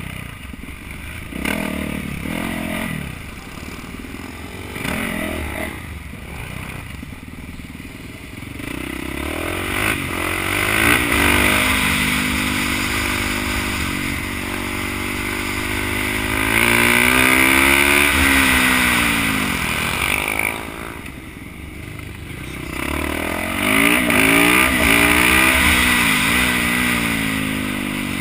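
Supermoto racing motorcycle engine at race pace, heard from the rider's helmet camera with heavy wind rush: quieter and choppy at first, then revving hard and climbing through the gears, the pitch rising and dropping at each shift. About twenty seconds in the throttle closes and the engine falls to a low run, then it revs up again near the end.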